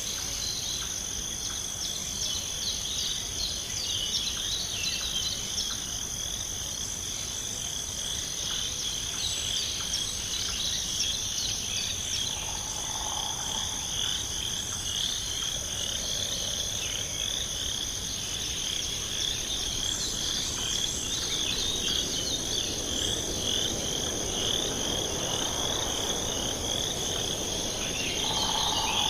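Chorus of crickets and other insects: a steady high-pitched trill over a lower, pulsing chirring. Two short, lower calls stand out, one about 13 seconds in and one near the end.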